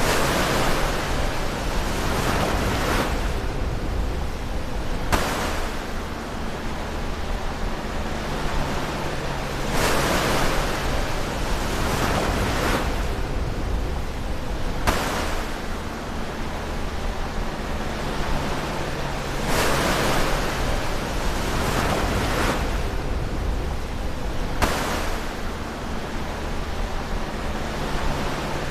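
Ocean waves breaking close to the shore, one surge of surf about every five seconds, each rushing in and then washing back and fading.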